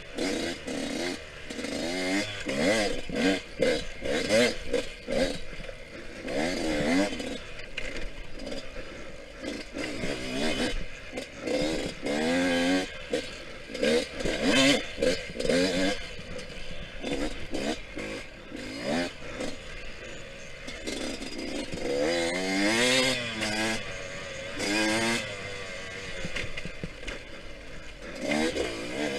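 Yamaha YZ125X's two-stroke single-cylinder engine under way, its pitch rising and falling again and again as the throttle is opened and closed, with bursts of rushing noise over it.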